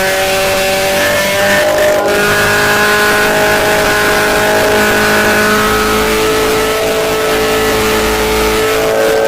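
Vehicle engine with a titanium exhaust system running hard at high revs, a loud steady tone whose pitch drifts slowly.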